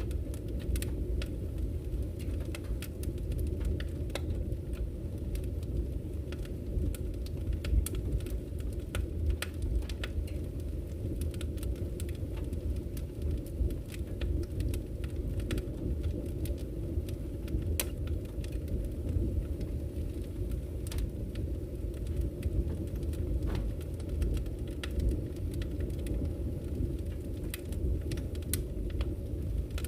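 Wood fire burning in a fireplace: a steady low rumble of the flames with many sharp, irregular crackles and pops from the burning logs.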